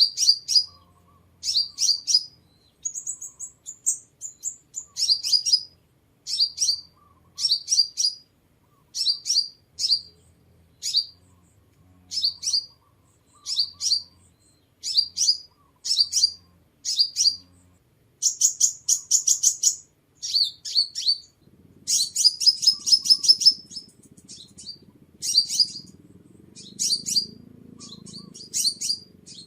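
Sunbird calling: short, sharp, high chirps in quick groups, about one group a second, broken by a few longer rapid trills, one of them about two thirds of the way through.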